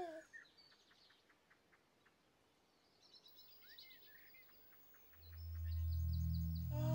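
Faint birdsong: scattered chirps and short trills. A brief gliding coo comes right at the start, and from about five seconds in a low sustained musical tone swells up.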